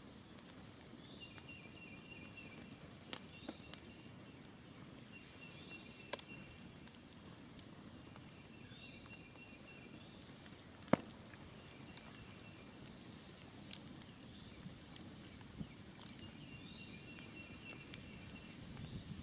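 Smoldering wood campfire crackling, with scattered sharp pops, the loudest about eleven seconds in. A faint wild call, a short rising note followed by a trill, repeats every few seconds in the background.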